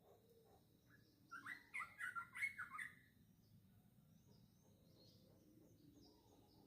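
Small birds chirping: a quick, dense run of short high chirps starting a little over a second in and lasting about a second and a half, then only faint chirps.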